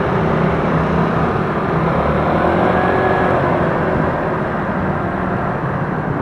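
Road and wind noise while riding a Gogoro electric scooter in city traffic: a steady rumble, with a faint whine rising and falling in pitch around the middle.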